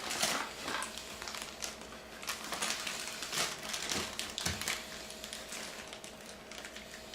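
Plastic packaging and cardboard being handled while a camera is unpacked: irregular crinkling, rustling and small taps and clicks.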